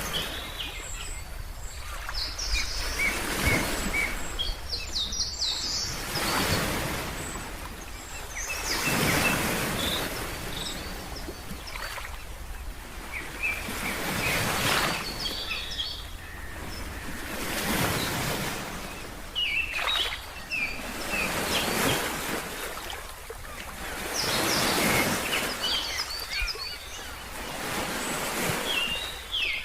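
Ocean waves washing in, swelling and fading every few seconds, with birds chirping in short high calls throughout.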